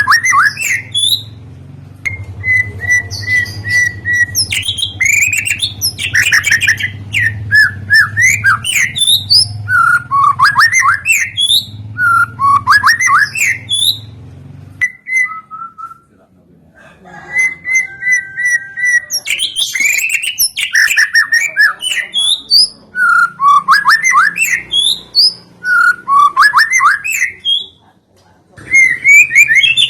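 A songbird singing loud, repeated phrases of swooping whistled notes, played as a lure recording to set white-rumped shamas singing. A low steady hum sits under the song, stops about halfway through, and comes back near the end.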